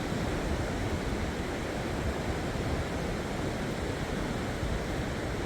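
Steady rush of sea surf and wind along the shore, with no breaks or distinct events.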